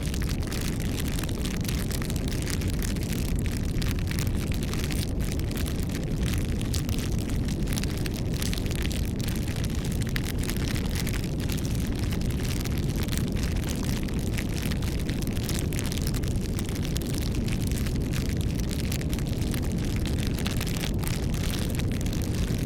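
Wood bonfire crackling: dense, irregular pops and snaps over a steady low rumble.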